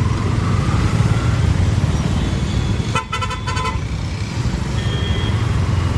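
A vehicle horn honks once, briefly, about three seconds in, over a steady low rumble of road traffic and riding.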